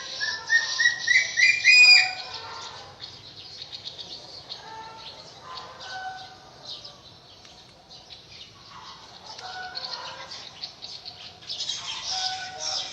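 A caged eagle gives a loud run of shrill whistled notes, each a little higher than the last, over about two seconds. Fainter, scattered chirps follow.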